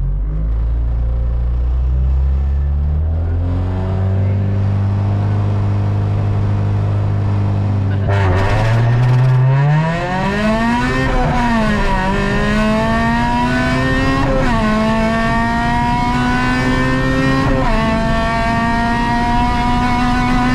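Honda Civic VTi rally car's four-cylinder engine, heard from inside the cabin, held at raised revs on the start line, then launching about eight seconds in and revving hard up through the gears, with quick upshifts about three, six and nine seconds after the launch.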